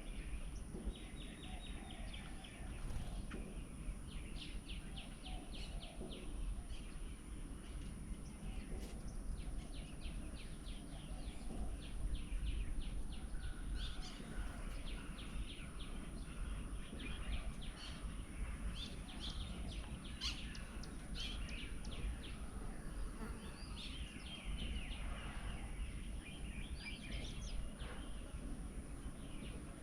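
Several birds chirping and calling in quick, repeated short notes over a steady low background rumble, with a constant high-pitched hiss above it.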